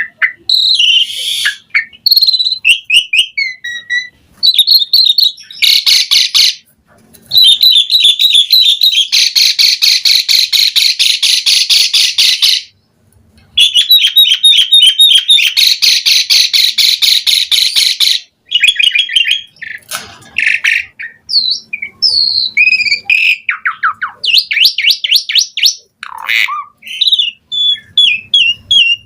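Asian pied starling (jalak suren) in full, loud song: a varied run of whistles and chatter, with long stretches of fast, harsh repeated notes and a short pause partway through.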